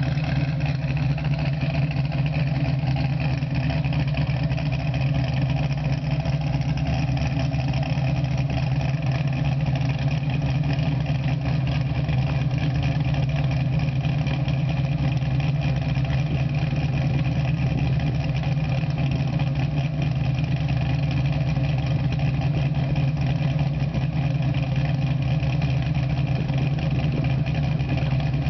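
Ford Mustang's 418 Windsor stroker V8 idling steadily through a Borla exhaust, with no revving.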